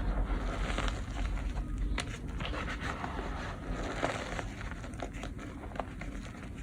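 Dyed gym chalk being crushed, crunching and crumbling into powder, with a few sharp cracks, the loudest about two and four seconds in.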